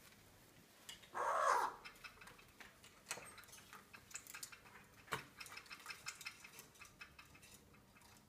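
A Cape parrot gives one short, falling call about a second in, then makes many irregular sharp clicks and taps as it plays, its beak working at a toy or a nut.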